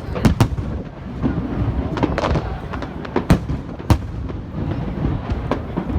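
Aerial fireworks bursting: sharp bangs, the loudest a few near the start and at about three and four seconds in, over a continuous rumble of other explosions.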